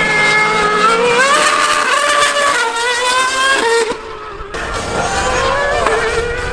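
High-revving racing engine accelerating hard, its pitch climbing several times and dropping back at each gear change, with a short lift about four seconds in.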